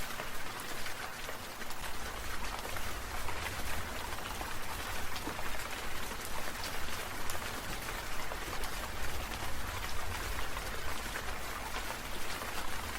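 Steady rain falling, a dense, even patter of many small drops hitting a surface, with a low rumble underneath from about a second in.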